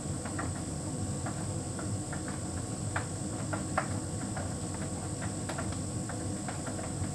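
Hotpoint heat pump tumble dryer running: a steady low hum with irregular light clicks and taps from the load tumbling in the drum.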